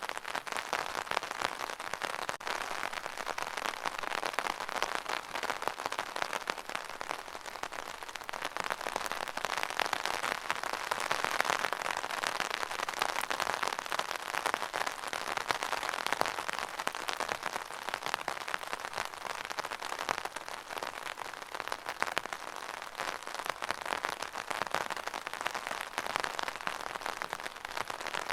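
Steady rain falling and pattering on a surface, a dense even spatter of drops that swells a little near the middle.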